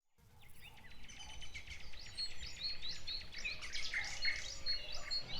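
A chorus of small birds chirping and twittering, many short overlapping calls and quick whistled sweeps, fading in and growing slowly louder.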